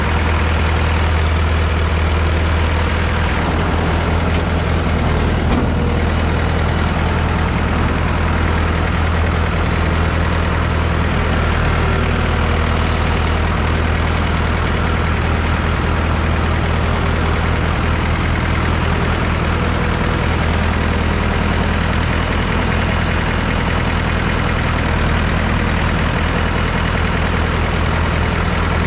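Massey Ferguson 3165 backhoe tractor's diesel engine running steadily at an even speed.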